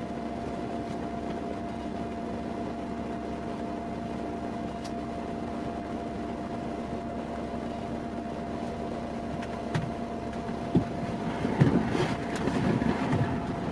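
Steady hum with a constant tone running through it, a couple of soft knocks, and faint indistinct sounds near the end.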